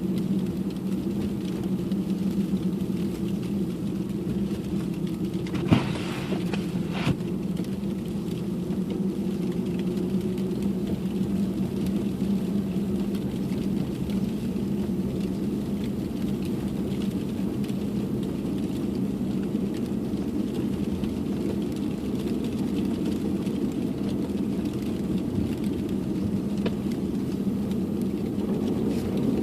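Steady drone of a car driving, engine and road noise heard from inside the cabin, with two short knocks about six and seven seconds in.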